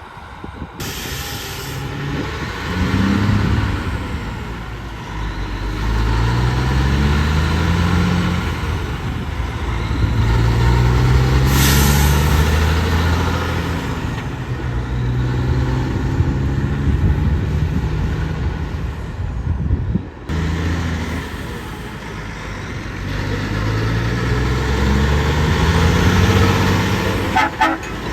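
Diesel semi-truck engine pulling away through the gears. The pitch rises in each gear, then drops back at each shift, several times over.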